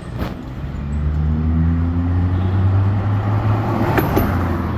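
A car engine running at low revs, its pitch rising slightly through the middle, with a sharp click just after the start and another near the end.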